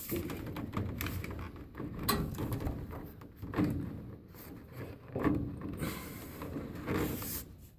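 Irregular knocks, scrapes and rustles as a furnace air filter is worked into its tight slot in the furnace cabinet.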